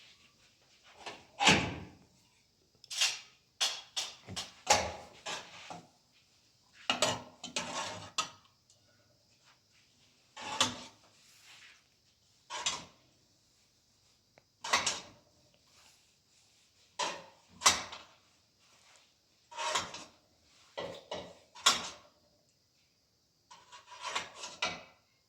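A series of short, irregular knocks and clatters, spaced a second or two apart.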